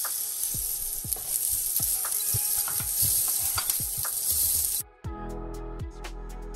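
Chillies and whole spices sizzling in hot oil in a pan while being stirred, with light spatula knocks. About five seconds in, the frying cuts off suddenly and background music with plucked notes takes over.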